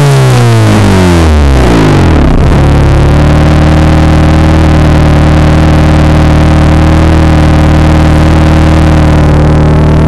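Turbocharged Honda S2000's four-cylinder exhaust, loud and close: the revs fall away after a blip, with one short rise, and settle about two and a half seconds in to a steady idle.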